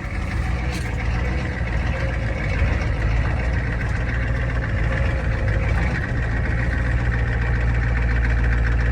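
6.9L IDI V8 diesel engine running steadily at a low, even speed shortly after a cold start in freezing weather.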